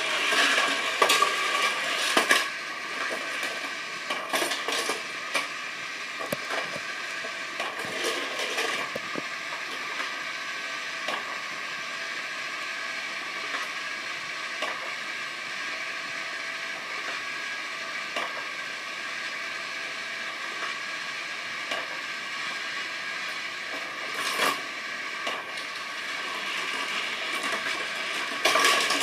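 Tomica die-cast toy cars running on a plastic playset, with a steady whir and clattering clicks of small hard parts, busiest in the first few seconds and again briefly near the end.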